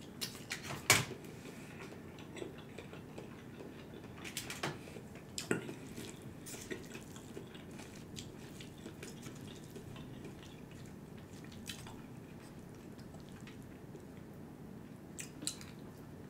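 Wet chewing and mouth sounds of a man eating stir-fry noodles, with scattered clicks and scrapes of a plastic fork in foil takeout pans.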